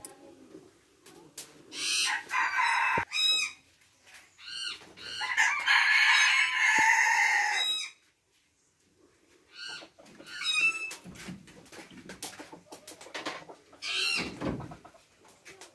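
Birds calling: several short calls, and a long loud call about five seconds in that lasts nearly three seconds.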